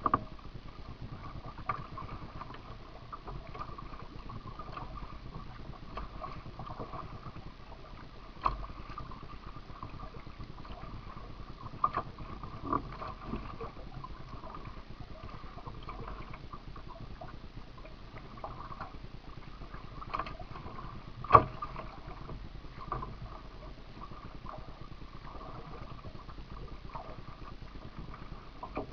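Kayak being paddled over a steady water and hum background, with scattered sharp knocks, the loudest about two-thirds of the way through.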